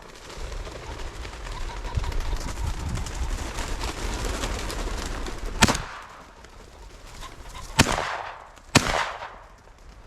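Rustling and brushing through cover, then three sharp cracks at about 6, 8 and 9 seconds in, the last two followed by a short echo.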